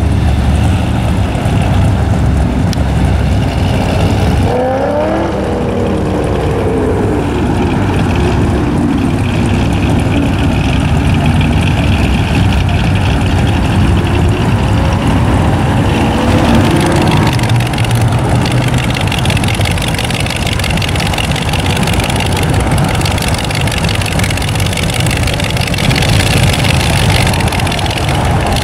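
Classic cars and a rat-rod hot rod with an exposed dual-carburetor V8 rumbling past at low speed, engines revving up about five seconds in and again around fifteen seconds in.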